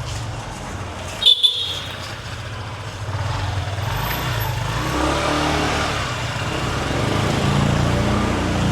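Motor scooters passing close by in street traffic, with one giving a short, high horn beep about a second in. Engine noise then builds and grows louder as a scooter comes near.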